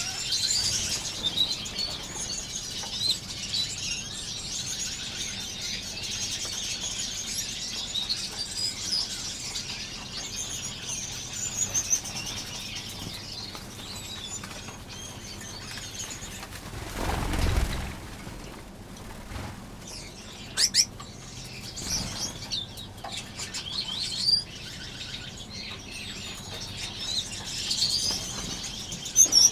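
A crowded aviary of small finches chirping and twittering continuously, with wings fluttering. A brief whooshing rush of noise comes about halfway through, and a few sharp clicks later on.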